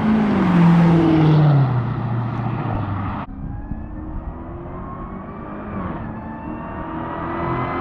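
Supercharged 6.2-litre V8 of a Dodge Charger SRT Hellcat Redeye with the mid mufflers deleted, driving past at speed: the exhaust note drops in pitch as it goes by. About three seconds in the sound breaks off and a second pass begins, the engine note rising steadily as the car comes on.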